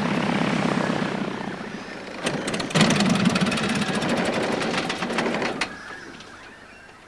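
A light propeller plane's engine running steadily. Through the middle a dense run of rattling clicks comes over it, and about two-thirds of the way in the sound drops away.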